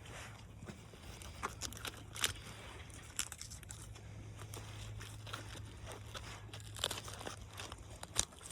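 Donkeys munching lettuce close by: scattered, irregular crunches and crackles, fairly faint, over a low steady hum.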